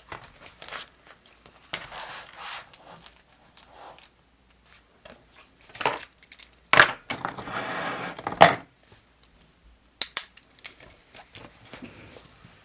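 Paper and stationery being handled at a desk: light rustling, a sharp tap about 7 seconds in, a second or so of rustling or scraping, another tap at about 8.5 seconds, and a few small clicks near 10 seconds.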